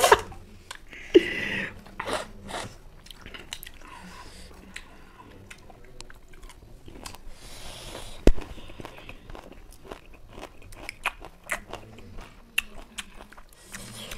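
Close-up chewing and biting of raw lemon slices: scattered short wet clicks of mouths working, with one louder, sharper knock about eight seconds in.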